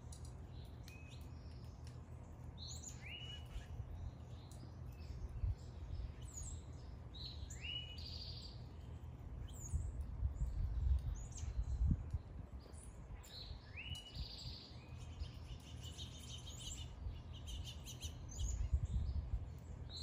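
Small songbirds singing: one bird repeats the same short phrase three times, each a sweep followed by a held note, about five seconds apart, with quicker chirps from others near the end. A low rumble runs underneath.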